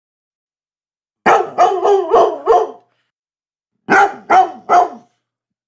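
A dog barking: about a second in, a quick run of five barks, a short pause, then three more.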